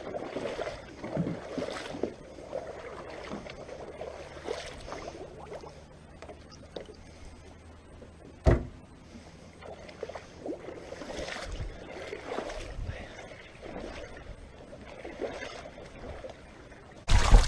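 Water splashing and sloshing irregularly. A single sharp knock comes about eight and a half seconds in, and a louder rush of noise near the end.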